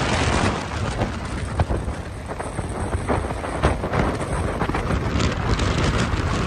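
Storm wind buffeting the microphone: a loud, dense rumble of noise, strongest in the low end, with many sharp crackling spikes as gusts hit.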